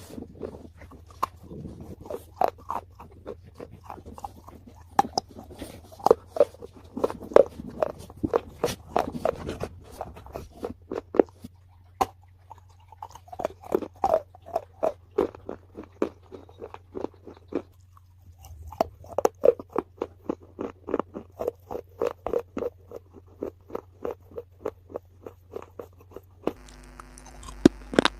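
Crunchy food being bitten and chewed close to the microphone, in quick runs of crisp crunches with short pauses between bouts, over a faint steady low hum.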